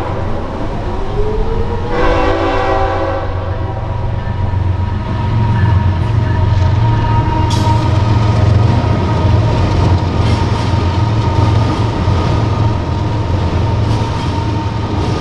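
A Brightline passenger train passing with its horn blowing: near the start the horn rises in pitch and sounds a full chord for about a second, over the steady heavy rumble of the train, with a sharp clank about seven and a half seconds in.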